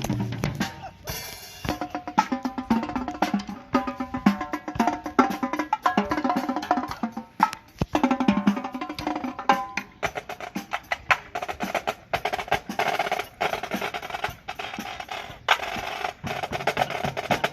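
Drum corps percussion section playing a fast, busy passage: rapid drum strokes and rolls with pitched notes sounding over them.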